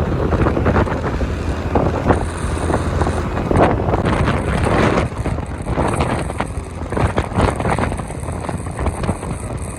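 Wind rushing and buffeting over the microphone of a moving motorcycle, with engine and road noise underneath.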